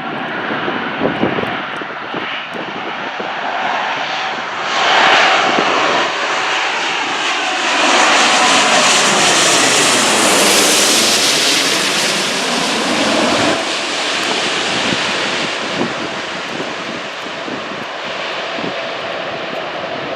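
Jet airliner on landing approach passing low overhead: its engine noise builds to a peak about halfway through, with a swishing sweep that falls and then rises in pitch as it goes over, then eases off.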